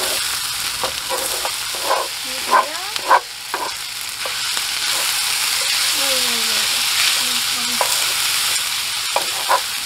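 Fried rice sizzling steadily on a hot iron griddle over a portable gas stove, stirred with a wooden spatula that knocks and scrapes against the pan a few times, most sharply about two and a half and three seconds in. The rice is being left to crisp slightly on the bottom, like nurungji.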